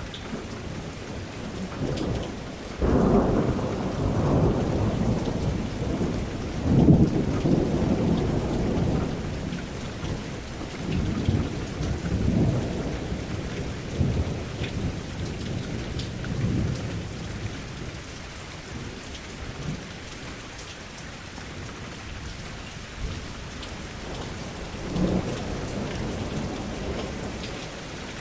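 Thunderstorm: steady rain with thunder. A rumble breaks in about three seconds in, a louder peal comes a few seconds later, and it rolls off over the next ten seconds. Another rumble comes near the end.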